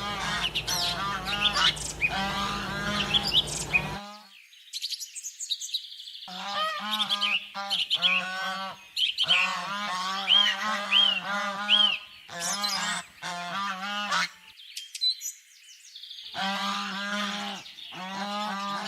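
Geese honking over and over in quick runs of calls, broken by two short pauses.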